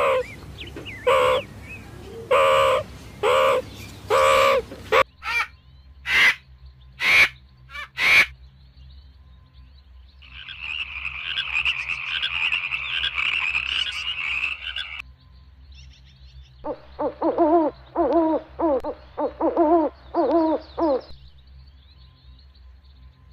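A run of animal calls. First, meerkats give repeated short calls about a second apart, ending in a few sharp, sudden sounds. Then comes a frog's steady, buzzing croak lasting several seconds. Last, an owl calls in a string of about eight short hoots, about two a second.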